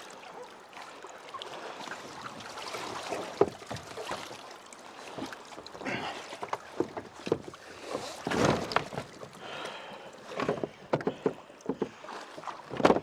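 Water splashing and sloshing around a person moving in the shallows beside a kayak, with irregular knocks and rustles, the loudest splashes about eight and a half seconds in and near the end.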